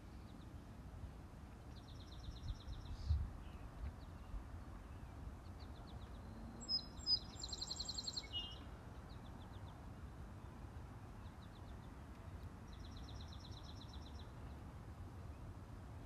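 Small songbirds singing short, rapid, high trills: one trill about two seconds in, a louder, closer one about seven seconds in, and another near the end. Under them runs a steady low outdoor rumble, with a low thump about three seconds in.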